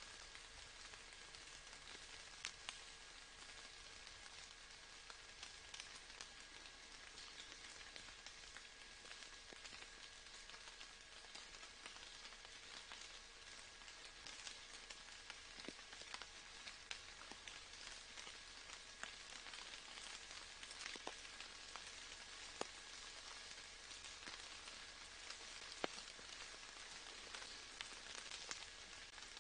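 Faint, steady rain: an even soft hiss with scattered individual drops ticking throughout.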